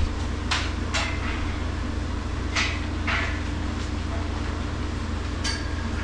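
Steady low machine hum, with a handful of short knocks and clicks scattered through it.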